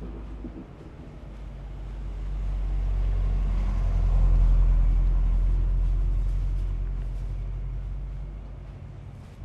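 A motor vehicle passing by, its low engine sound swelling to a peak about halfway through and fading away again.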